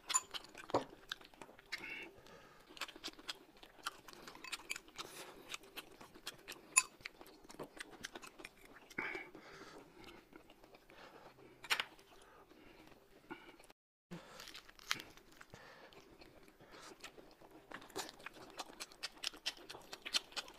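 People eating close to the microphone: chewing and crunching food, with many irregular sharp clicks and taps. The sound drops out briefly about fourteen seconds in.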